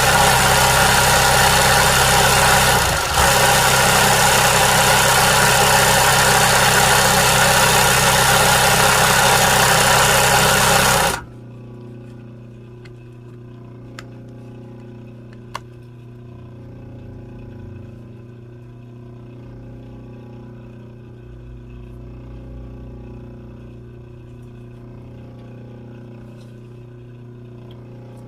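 Sewing machine stitching fast and without stopping, with a brief slowdown about 3 seconds in, then stopping suddenly about 11 seconds in. After that only a steady low motor hum is left, with a couple of faint clicks.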